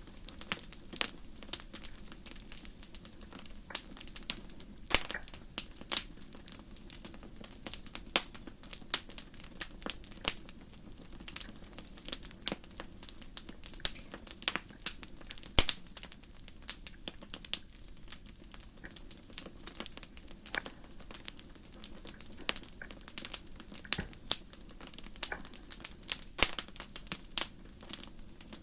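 Wood fire crackling: irregular sharp pops and snaps, several a second and unevenly spaced, over a steady low hiss of burning.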